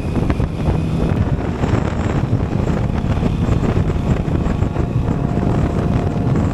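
Wind rushing over the microphone of a moving motorcycle, with the engine running underneath; loud and steady.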